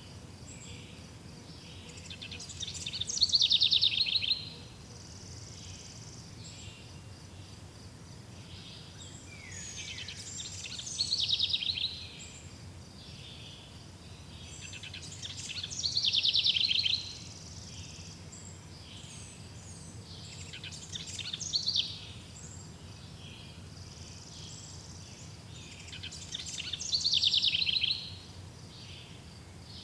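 A songbird repeats the same short, fast trilling song phrase five times, one every five to eight seconds, each under two seconds long, over a steady low background hum.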